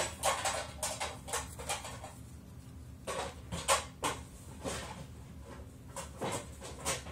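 Irregular short rustling and scuffing noises, the loudest near the start and about three and a half seconds in, over a steady low hum.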